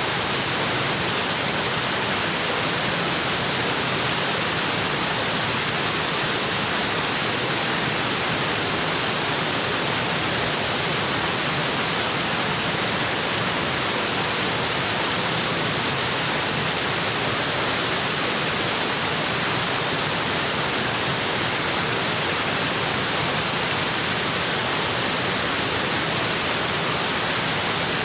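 Waterfall, water falling steadily onto rocks: a constant, even rush.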